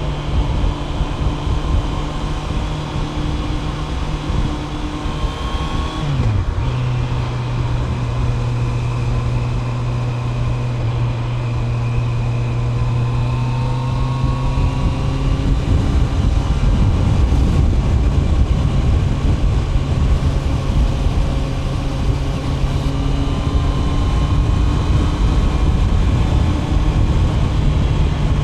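Honda CB650R's inline-four engine, fitted with a DNA air filter, running under way on the road. About six seconds in the engine note dips sharply and settles again, like a quick gear change. Later the pitch climbs slowly and wind and road noise grow louder.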